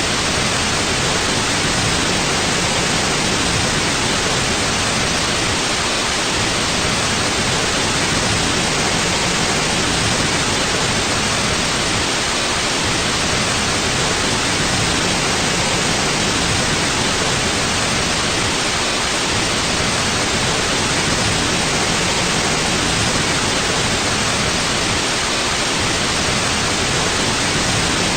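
Steady white noise: an even, unchanging hiss spread across all pitches, from low rumble to high hiss, for sleep masking.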